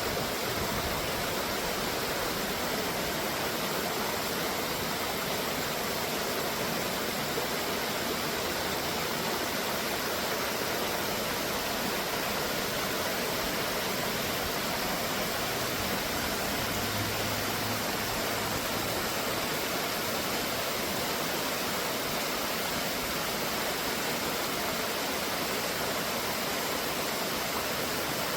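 Waterfall on a creek, rushing water making a steady, even rush.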